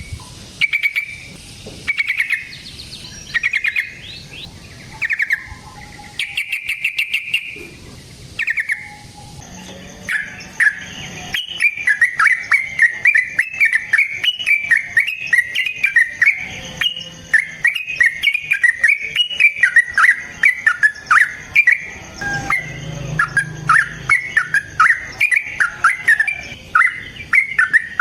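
Yellow-vented bulbul singing: short separate bubbling phrases at first, then, from about eleven seconds in, a long fast unbroken run of chattering notes.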